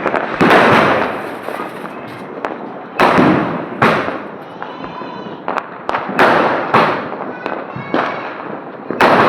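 Aerial firework sky shots going off: about six loud bangs at uneven intervals, each trailing off in a crackling, echoing rumble.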